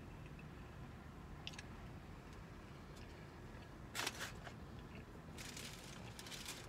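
A person chewing and biting food close to the microphone during a mukbang. A short louder crunch comes about four seconds in, and a crackly stretch follows near the end.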